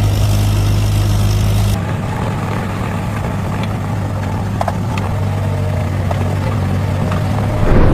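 An engine running steadily. About two seconds in, the sound switches abruptly to a different, somewhat quieter engine drone that continues, with a few faint knocks and a brief swell in loudness near the end.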